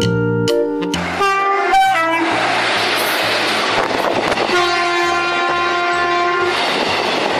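Train sound effect laid over bouncy children's background music: a rushing, hissing train noise starts about two seconds in, then a steady train horn sounds for about two seconds in the middle.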